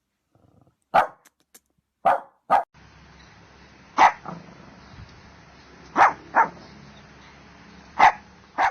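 Dog barking in short single barks and quick pairs, roughly every two seconds. A steady background hiss comes in about three seconds in.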